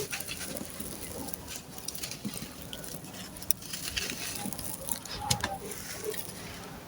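Dry sand-cement chunks crumbling and crushing, with a dense, irregular run of crunchy crackles and small gritty pops and a few sharper cracks.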